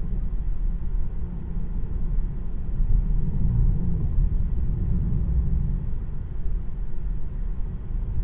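Steady low road and tyre rumble inside the cabin of a moving Tesla Model 3, an electric car with no engine note.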